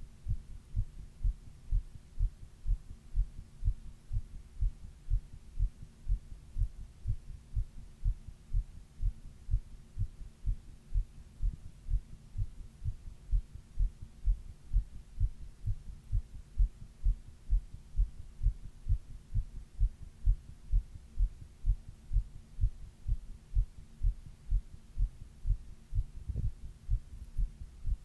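A human heartbeat heard up close, steady paired lub-dub beats in an even rhythm, with a faint steady hum beneath. One sharper knock comes near the end.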